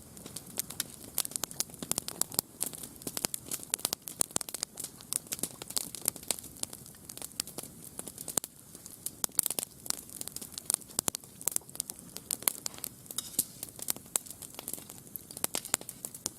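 Wood campfire crackling, with many irregular sharp pops and snaps, several a second.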